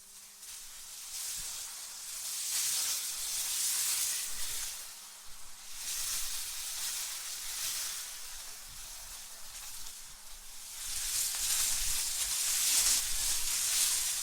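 AI-generated wind ambience: a high, airy hiss that swells and fades in gusts, three surges in all, with a faint low rumble joining in the last few seconds.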